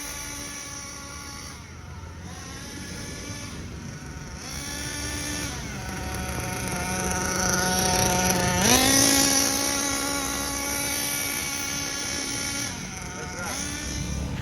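Nitro engine of a Hobao Hyper VS RC buggy running during break-in, a buzzing whine whose revs fall and rise several times with the throttle. It runs lower for a couple of seconds in the middle, then revs up sharply about nine seconds in.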